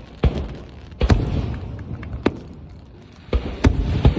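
Fireworks bursting overhead: a string of about six sharp booms in four seconds, each trailing off in a rumbling echo.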